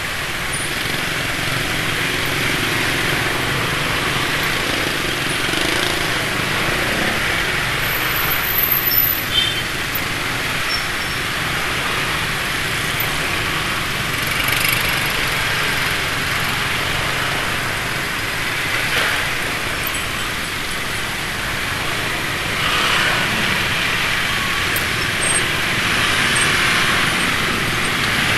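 Motorbike traffic heard from a moving scooter: steady engine and road noise, with other motorbikes' engines swelling up as they pass every few seconds.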